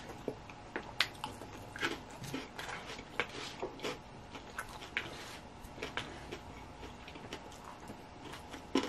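A person chewing salad close to the microphone: irregular soft crunches and wet mouth clicks, a few each second.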